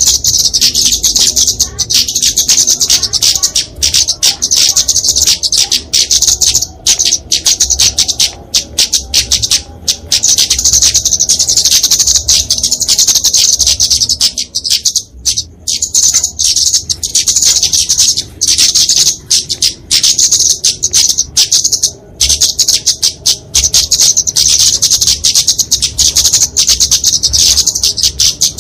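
Kemade flowerpecker (Dicaeum) giving its agitated 'fighting' song: a continuous stream of rapid, high-pitched chips and twitters, with a short break about halfway through.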